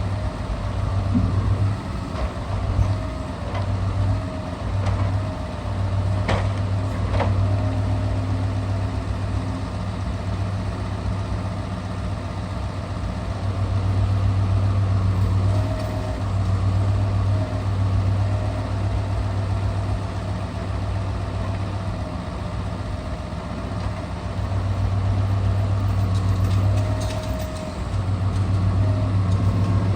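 Scania R650 truck's V8 engine running steadily while powering the timber crane, its drone swelling and easing as the crane works. Two sharp knocks come about six and seven seconds in.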